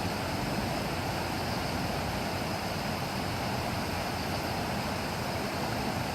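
Steady, even rush of heavy typhoon rain and wind, with no single event standing out.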